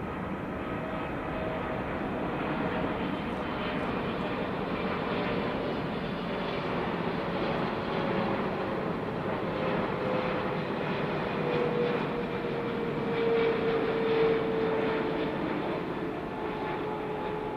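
Boeing 777-300ER's GE90 jet engines as the airliner passes: a steady broad engine noise with a tone sliding slowly down in pitch, loudest about three quarters of the way through.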